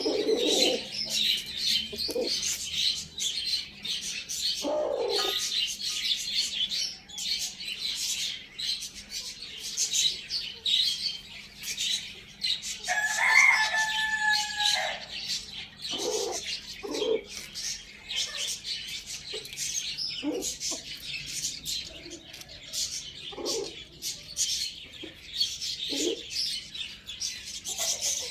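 Poultry: constant high chirping from many birds, short low clucking calls here and there, and one rooster crow about two seconds long near the middle.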